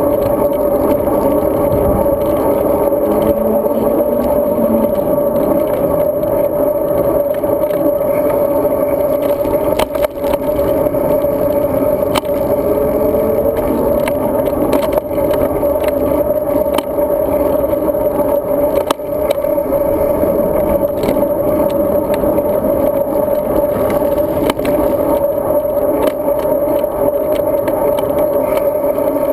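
Steady riding noise of a road bike, heard through a GoPro Hero 2: wind and tyre noise with scattered small clicks and rattles.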